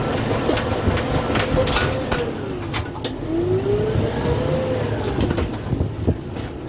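Kubota M6-141 diesel tractor engine running under load. Its pitch sags about halfway through and climbs back, while sharp snaps and knocks come from the grapple working brush and branches.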